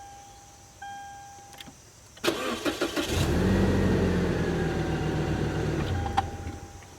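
A car's warning chime beeps about once a second. Then the starter cranks, and the engine catches and runs for about three seconds before it cuts out. The car is one that has been refusing to start.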